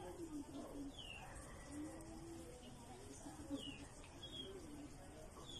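Birds calling: low drawn-out cooing notes and, several times, short high chirps that slide downward.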